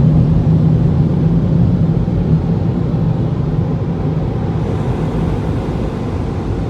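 Automatic car wash dryer blowers running, a loud steady blowing rumble with a low hum, heard from inside the car and slowly easing off.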